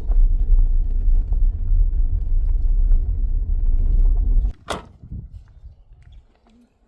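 Low rumble of a running vehicle that cuts off abruptly about four and a half seconds in, followed at once by a single clunk, then quiet.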